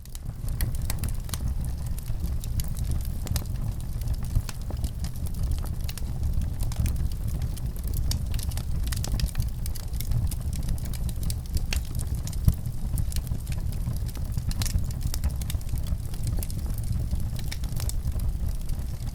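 Fire in a fireplace crackling: irregular sharp pops and snaps over a steady low rumble, with one louder pop about twelve seconds in.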